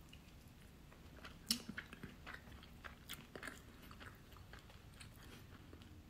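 A person chewing a mouthful of french fry with the mouth close to the microphone: a series of faint, soft crunches and wet mouth clicks over a few seconds, the loudest about one and a half seconds in. The fry is a little undercooked.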